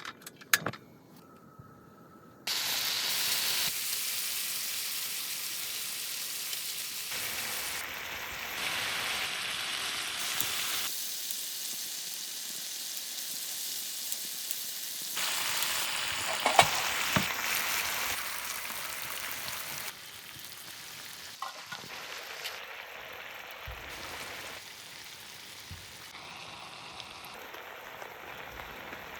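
Food sizzling in a hot pan, a steady frying hiss with a few sharp clicks. It jumps in level at abrupt cuts about two seconds in, around eleven seconds and around twenty seconds.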